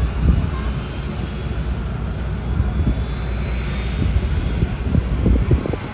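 JMSDF SH-60K helicopter's twin turboshaft engines and rotor running steadily, with irregular low thumps about four to five seconds in.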